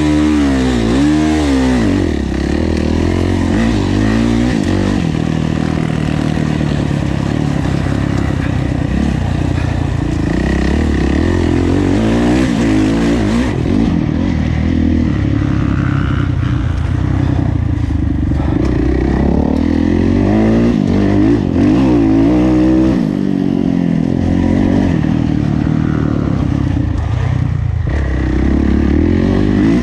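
Kawasaki KX450F's four-stroke single-cylinder engine under hard riding, revving up and falling back again and again as the throttle is worked.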